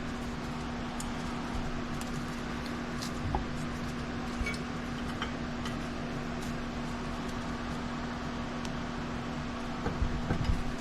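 A steady hum with one even tone, over which a few faint clicks and clinks of small parts being handled stand out now and then.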